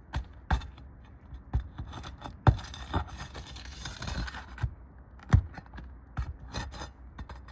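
Metal roofing tools working under asphalt shingles to pull roofing nails: irregular sharp knocks and clicks with scraping between them, the loudest knocks about two and a half and five and a half seconds in.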